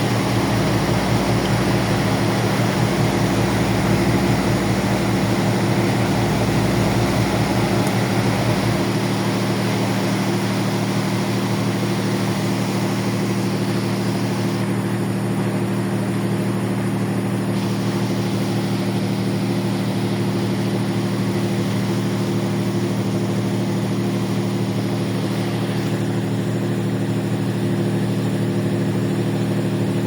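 Ferry's engines running with a steady drone, several even tones held throughout; the deepest rumble drops away about nine seconds in.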